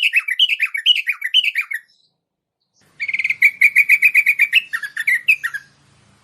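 Bulbul (merbah) song played as a lure call: a run of quick up-and-down warbling notes that stops about two seconds in, then after a short pause a second phrase, a fast trill of repeated notes that ends in a few separate lower notes.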